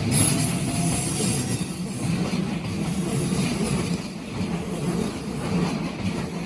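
Keikyu Line electric train running over a level crossing: steady rumble of wheels on rail, with a faint high-pitched wheel squeal above it.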